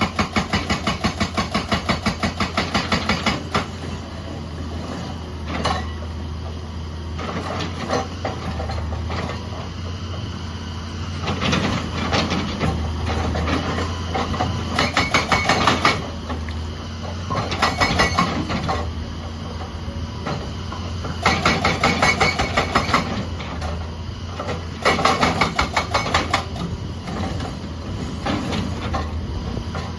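Excavator's diesel engine running under load while its hydraulic breaker hammers in bursts of a few seconds each, rapid evenly spaced blows, about six bursts with short pauses between.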